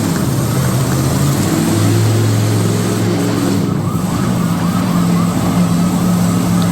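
Big monster truck engine running loud, its pitch stepping up about two seconds in and again about halfway through.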